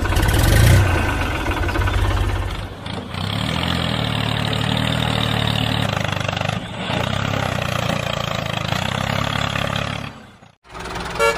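Tractor engine starting with a loud burst, then running steadily. It cuts off abruptly about ten seconds in.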